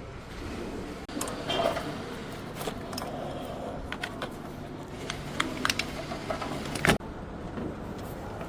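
Hand tools clinking and knocking on metal engine parts during engine dismantling: a scatter of sharp metallic clicks, with one louder knock about seven seconds in.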